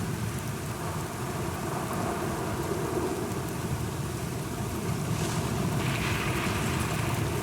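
Steady rainfall with a low, continuous rumble of thunder underneath.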